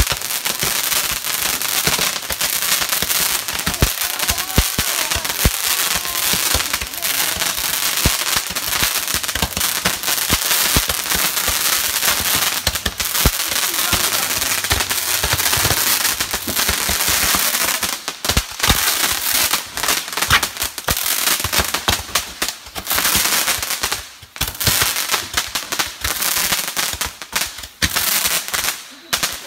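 Fireworks spraying showers of sparks close by: a steady hiss packed with rapid crackling pops, which breaks up into more separate bursts of crackle in the last third.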